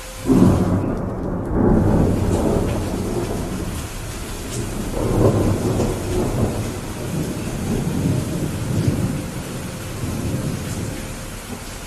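Steady rain with a thunderclap breaking about half a second in, its low rumble rolling on in several swells and easing off near the end.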